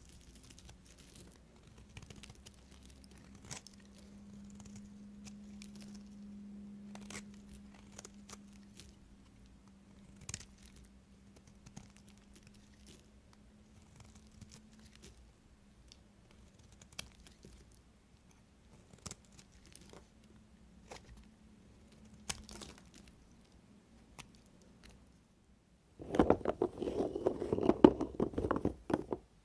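A knife working a bar of soap: faint scattered taps and clicks with a faint low hum for most of the time, then about three seconds of loud crackling crunch near the end as the blade cuts through.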